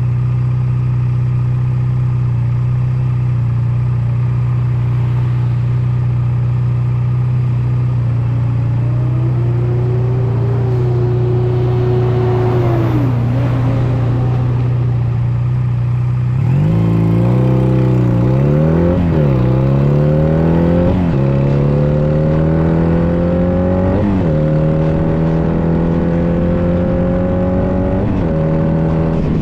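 Honda Nighthawk 250's air-cooled parallel-twin engine running at a steady pitch. A little past halfway it dips, then climbs in a series of rising sweeps broken by short dips, as the bike accelerates up through the gears.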